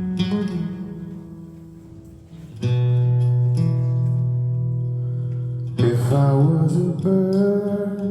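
Guitar playing the chords of a song's intro, each chord ringing on. New chords come in sharply about two and a half seconds in and again near six seconds.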